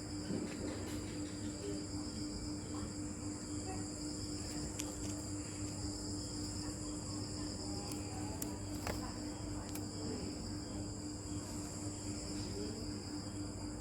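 Crickets chirping in a steady, unbroken high chorus, with a low steady hum underneath and a few faint clicks.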